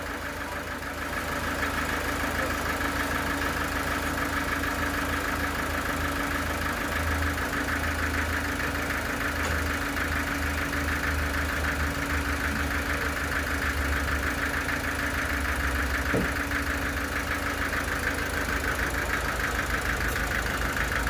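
Sawmill machinery running steadily, with a constant engine-like drone that swells slightly about a second in.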